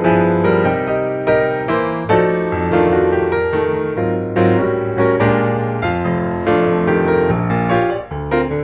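Background piano music: a gentle melody of struck notes that ring and fade, several a second.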